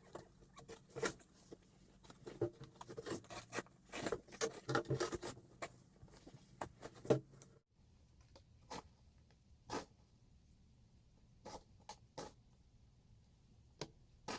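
Snow crunching and scraping in short irregular rasps, a dense run for the first half, then only a few isolated crunches.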